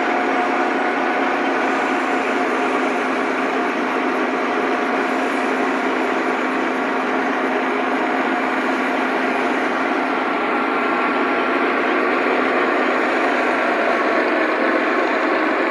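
Wheat thresher driven by a Millat tractor, running steadily at a constant speed, with a few steady humming tones over the machine noise.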